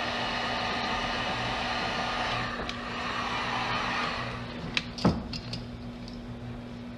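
Heat gun blowing steadily, then switched off about four seconds in, followed by a few sharp clicks and one louder knock.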